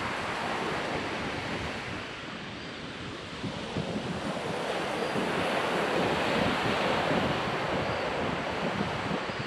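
Ocean surf washing onto a beach, easing off and then swelling again from about three and a half seconds in, with wind buffeting the microphone.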